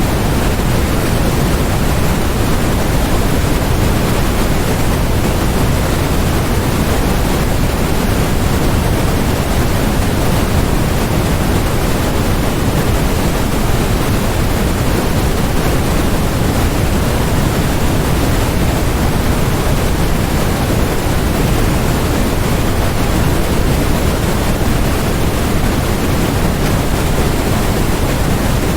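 Steady, unchanging synthetic noise sold as white noise: a constant hiss with more weight in the low end than in the highs, with no breaks or changes.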